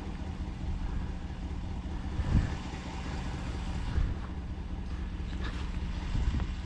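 Car engine running steadily as the car drives along, heard from inside the cabin, with a couple of low thumps about two and a half and four seconds in.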